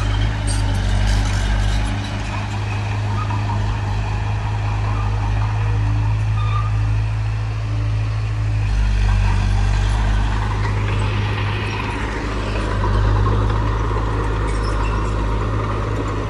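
Heavy diesel engine of earthmoving machinery running steadily, a low drone whose deepest part drops away about two seconds in and returns about nine seconds in.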